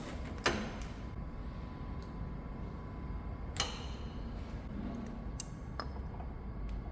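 A few sharp, isolated clicks over a low, steady workshop hum, as the milling machine table is moved into position.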